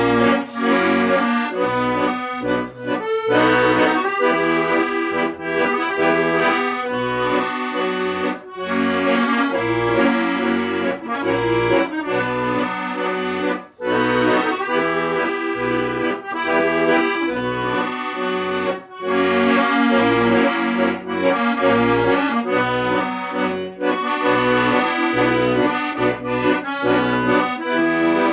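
Accordion playing a melody over rhythmic bass notes, with a brief break between phrases about halfway through.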